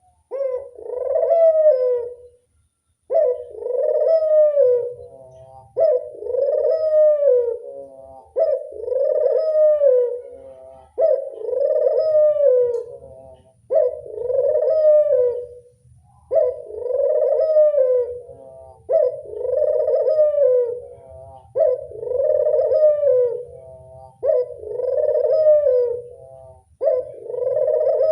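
Puter (ringneck) dove cooing over and over: a drawn-out coo that rises and falls, repeated about every two and a half seconds.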